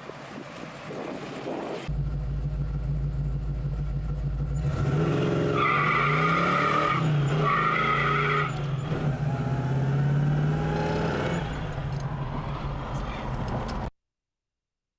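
Big-block 454 V8 of a 1972 Chevelle SS heard from inside the cabin: after a couple of seconds of faint outside noise, it runs loud and accelerates hard with rising revs through the middle, with two spells of tyre squeal. The sound stops abruptly near the end.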